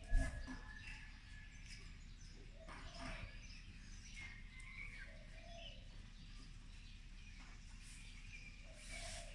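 Birds chirping here and there over faint steady background noise, with one sharp low thump right at the start.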